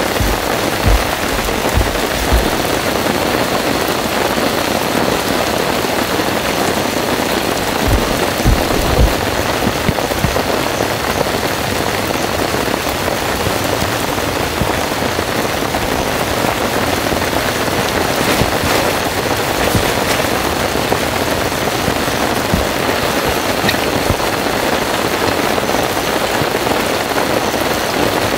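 Heavy rain pouring steadily, with a few brief low thumps in the first several seconds.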